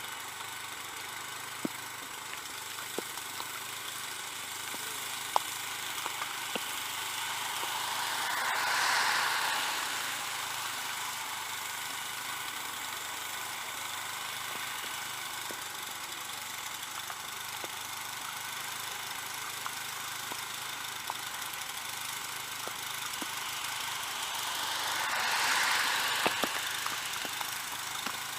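Small snowblower engine running steadily with a bad muffler. The sound swells twice for a couple of seconds, and a few sharp clicks come through.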